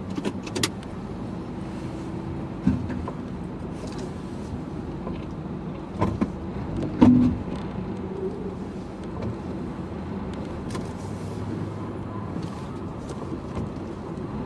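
Crash-damaged 2005 Honda Civic's engine running steadily, the car being backed up. A few short knocks and clunks sound over it, the loudest about seven seconds in.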